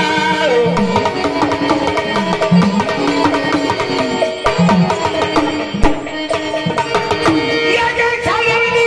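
Marathi devotional folk music of the gondhal tradition, played by an ensemble: hand-drum strokes keep a steady rhythm under a sustained melodic line.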